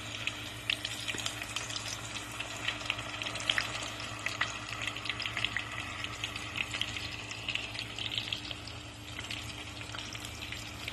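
Salchitacos sizzling as they fry in hot oil, with a steady crackle and many small irregular pops. A steady low hum runs underneath.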